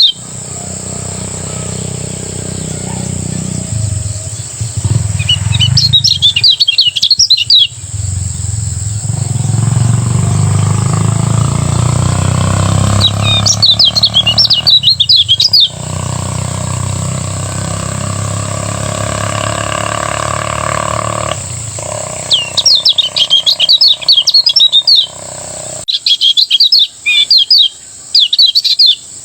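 Kecial kuning white-eye singing its fast rolling song in four bouts of rapid high twittering, each about two seconds long. A steady high whine and a low hum run underneath.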